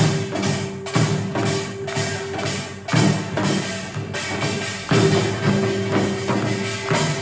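Korean traditional ensemble music played live: a held melodic note over lower sustained tones, punctuated by sharp percussion strikes every second or so.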